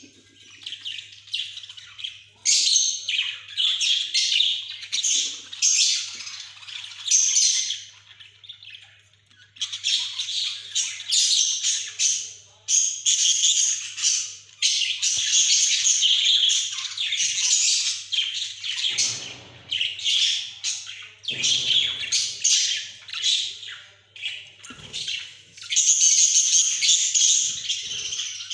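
Budgerigars chattering: rapid high chirps and squawks coming in bursts, with brief lulls between them.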